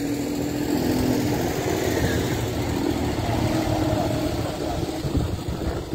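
Car engines idling: a steady low rumble.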